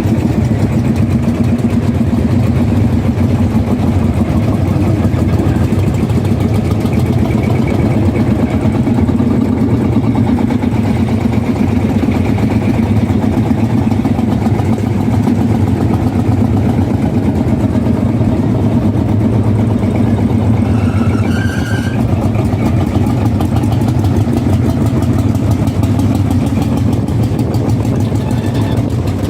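An engine running steadily at an even, low pitch. A brief higher-pitched sound rises over it about 21 seconds in.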